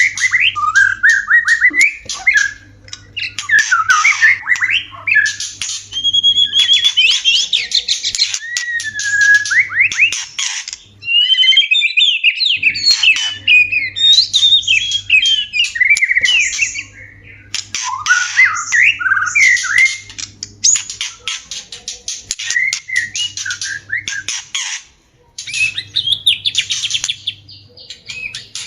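White-rumped shama (murai batu) courtship song: a fast, varied stream of whistled, sweeping phrases mixed with harsh rasping notes, in bursts with short pauses between them.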